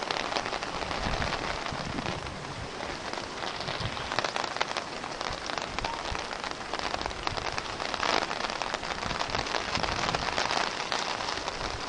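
Steady rain falling on the lake and shore, a dense patter of many small drops.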